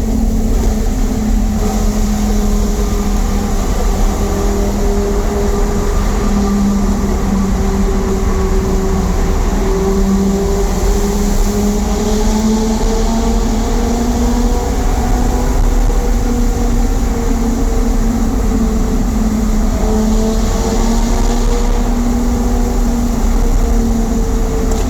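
Lamborghini Gallardo Superleggera's V10 engine running steadily at highway cruise in a tunnel, over a heavy low road rumble. Its drone dips slightly in pitch about a third of the way in, then climbs back.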